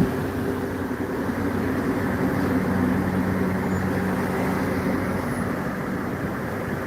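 Steady car engine and road noise with a low hum.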